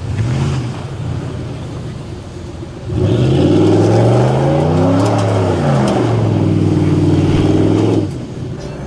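Truck engine revved hard about three seconds in: its pitch climbs and falls back, then holds at a steady high rev for about two seconds before dropping off suddenly, over a lower engine rumble.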